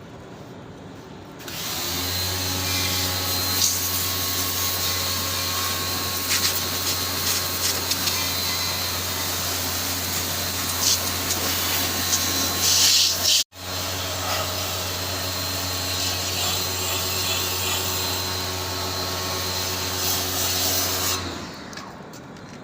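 An electric power tool's motor running steadily with a low hum and a hiss. It starts a second and a half in, cuts out for an instant midway, and stops near the end.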